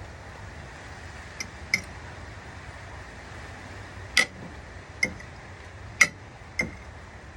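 Eating utensil clinking against a dish, about six light, ringing clinks spaced irregularly, the loudest around the middle.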